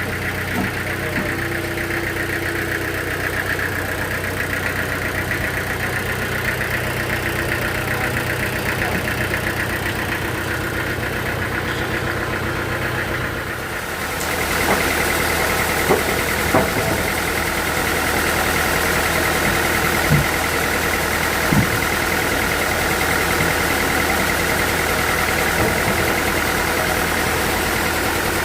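Sawmill machinery running steadily on its engine. About halfway through the sound grows louder and hissier, with a few short knocks.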